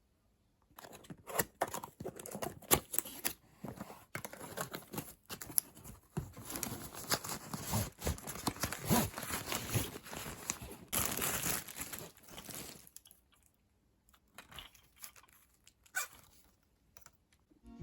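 Rustling and crinkling handling noise with many small clicks, dying down to a few isolated taps for the last few seconds.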